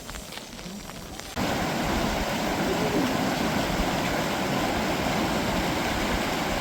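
Steady rushing of water that starts abruptly about a second and a half in, loud and unbroken. Before it, faint scattered crackling clicks.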